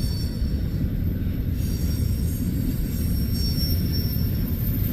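Freight train cars, including tank cars, rolling past: a steady low rumble of wheels on rail, with a faint high-pitched wheel squeal.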